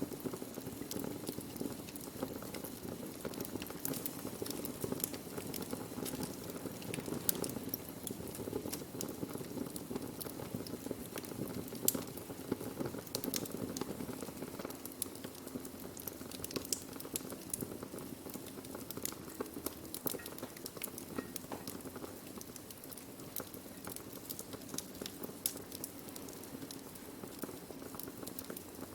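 Burning wood fire crackling, with irregular sharp pops and snaps over a steady low rush of the flames.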